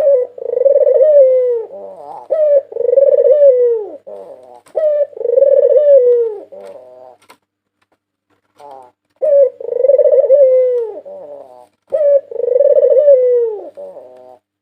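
White ringneck dove (puter putih) cooing. Five long low coos of about a second and a half each are broken by short clipped notes, in two runs with a pause in the middle.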